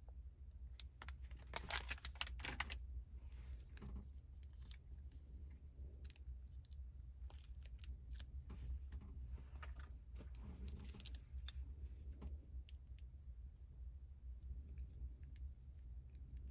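Scattered light clicks, taps and rustles of hands handling kitchen utensils and packaging during meal preparation, with a cluster of quicker clicks a couple of seconds in, over a steady low hum.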